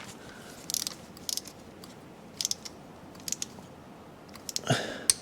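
Hand wrench ratcheting on a bolt in short bursts of clicks, a few strokes at a time, as the bolt is tightened during a torque sequence.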